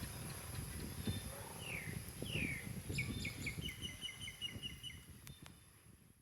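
A bird calling: two downward-sliding notes, then a quick run of short chirps lasting about two seconds, over a low rumbling background that fades out near the end.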